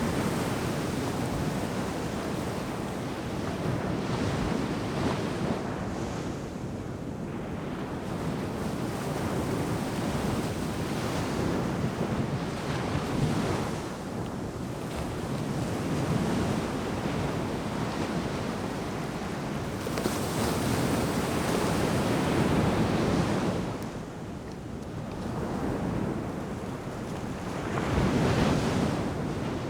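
Ocean surf breaking on a sandy beach: continuous wash of waves that swells and eases every few seconds, with a louder surge about two-thirds of the way in and another near the end. Wind noise on the microphone runs under it.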